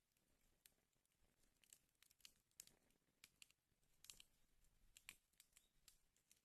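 Wood fire in a fireplace crackling faintly, with irregular sharp pops and ticks over a soft hiss.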